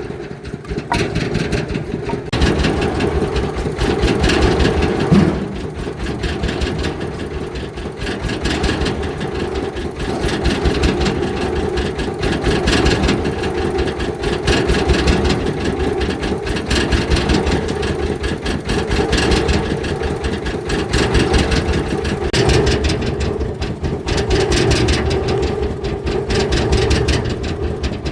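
An engine running continuously, its level swelling and easing every couple of seconds as the load changes.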